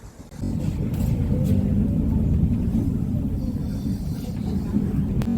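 Steady low rumble of a moving vehicle, starting suddenly about half a second in, with a faint hum over it and a sharp click near the end.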